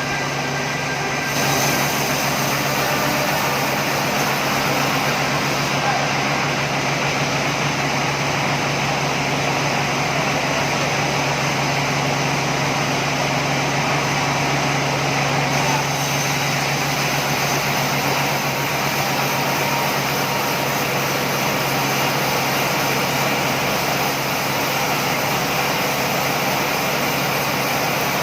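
Sawmill machinery running steadily: a constant engine-like drone with a low hum. The upper range fills in about a second in.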